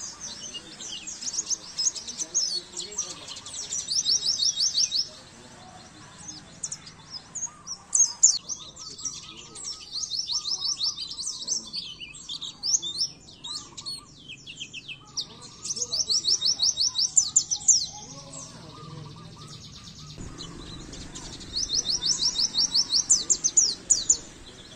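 Pleci (white-eye) singing: phrases of rapid, high chirping trills a few seconds apart, each a quick run of repeated notes.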